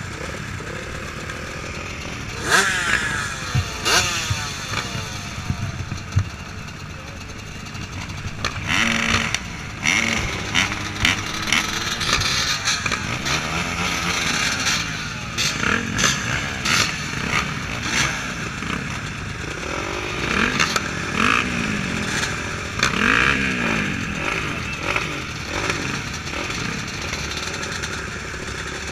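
Motocross bikes racing, engines revving up and down repeatedly as they accelerate and shift.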